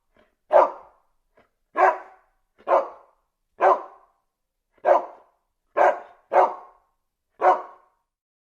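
Dog barking: eight single barks, about one a second, with two coming close together about six seconds in.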